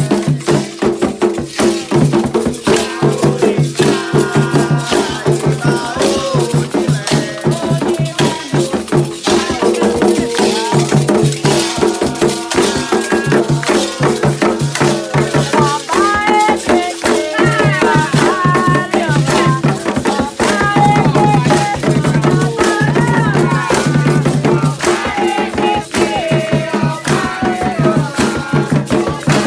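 Candomblé ritual music: fast, steady shaking of rattles and drum strokes with voices singing over them.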